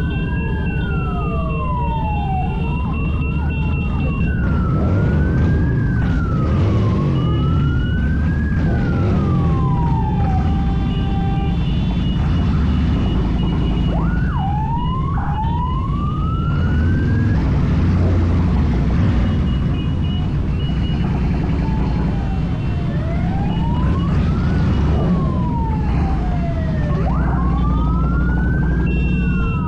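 Sirens wailing, rising and falling in pitch, at times two overlapping, over a steady low rumble of motorcycle engines.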